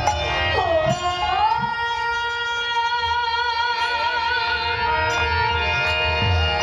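Bengali kirtan music: a melody glides and then holds long wavering notes over a steady drone, with low drumbeats underneath.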